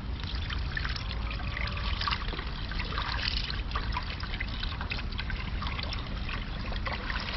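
Beef broth being poured into a soup pot: a steady trickling, splashing pour with no break.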